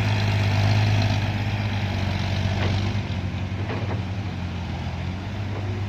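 Heavy diesel truck engine running steadily at idle, its low hum easing slightly about halfway through.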